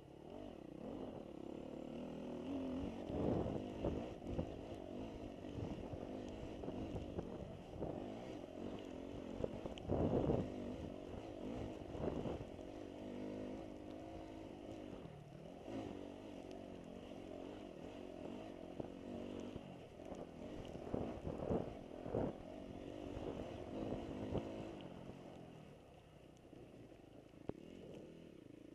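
Dirt bike engine riding a motocross track, its revs rising and falling continuously, with several loud thumps along the way.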